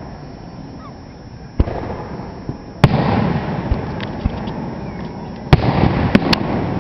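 Aerial fireworks shells bursting. A moderate bang comes about a second and a half in. The loudest bang follows about three seconds in, with a long rumbling echo after it. Another loud bang comes near the end, followed by a few quick sharp cracks.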